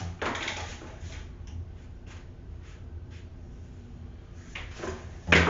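Plastic parts of a cordless wet/dry vacuum and its hose being handled: a rustling scrape just after the start, a few light clicks, and a sharp knock near the end.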